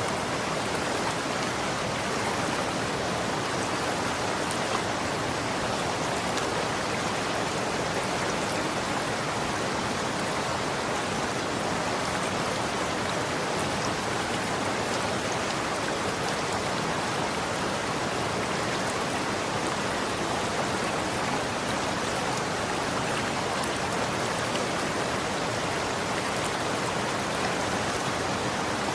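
Running water flowing steadily: an even, unbroken rush with faint droplet patter.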